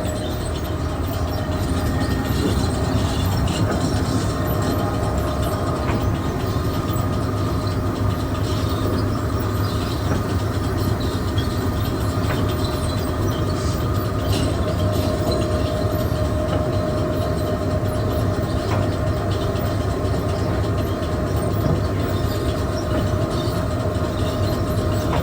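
Grain elevator bucket leg running steadily, a continuous machine hum with scattered clicks from the belt and buckets moving through the leg.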